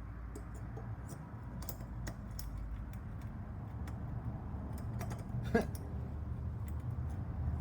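Scattered light clicks and taps of small objects being handled and set down, with one louder knock about five and a half seconds in, over a steady low hum.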